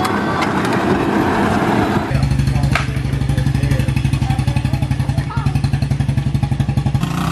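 Motorcycle engine running close by: rough and rising for about two seconds, then settling into a steady, fast-pulsing run.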